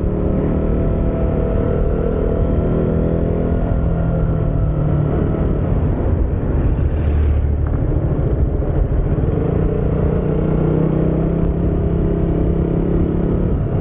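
Motorcycle engine running at a steady cruising pace while riding, with wind noise on the microphone.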